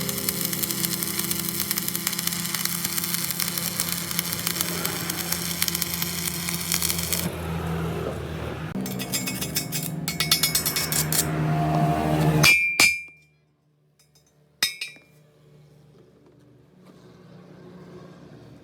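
A steady mechanical running noise from a machine that turns rough and cuts off abruptly about twelve seconds in. Two sharp metallic clinks ring briefly, one as it stops and another about two seconds later.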